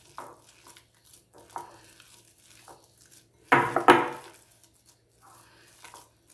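A utensil scraping and knocking against a bowl while mashing boiled potatoes into a paste, in irregular strokes, with the loudest clatter about three and a half seconds in.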